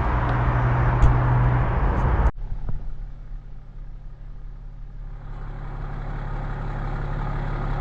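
Vehicle engine running with road noise and a steady low hum. It cuts off abruptly a little over two seconds in, replaced by a quieter engine hum that slowly grows louder.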